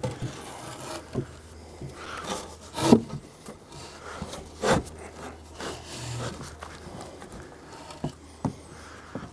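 Wood rubbing and scraping, with a few scattered sharp knocks.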